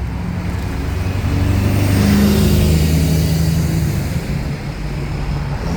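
Bus engine accelerating away, its note rising and loudest about two seconds in, then holding and easing off. The coarse exhaust note is what the spotter calls a burst exhaust: a knackered, blown exhaust.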